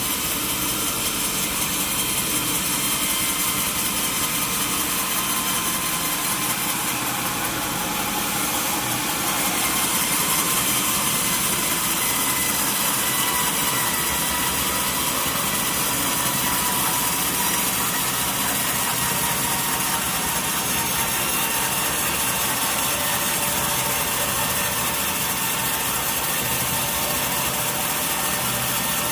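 Sawmill machinery running steadily, a continuous loud mechanical noise with faint steady whining tones.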